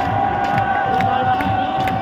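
Football stadium crowd cheering, with one long steady note held over it that cuts off at the end, and sharp claps or beats scattered through.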